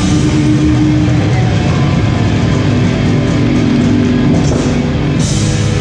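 Live hardcore punk band playing loud, with distorted electric guitars holding chords over bass and drums, and a cymbal crash near the end.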